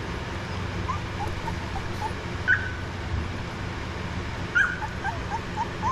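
Cane Corso puppies whimpering in short, high, rising squeaks, several a second, with two louder yelps about two and a half and four and a half seconds in.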